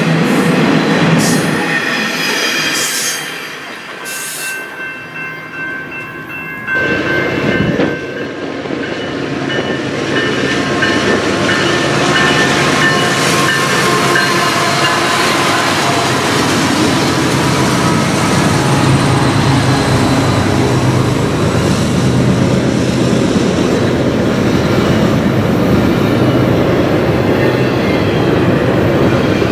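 Freight train passing close by. First the last cars of an intermodal train clatter past on the rails. About seven seconds in, the sound jumps to a BNSF diesel locomotive and its double-stack container cars going by, with a steady rumble of wheels on rail, engine drone and high ringing or squealing tones.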